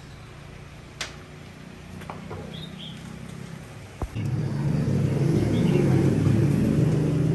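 A low motor rumble. A sharp click comes about four seconds in, and the rumble then grows much louder and keeps running. Birds chirp faintly.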